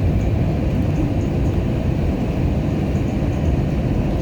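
Steady low rumble inside the cabin of an Airbus A321-200 taxiing after landing, with the engines at idle.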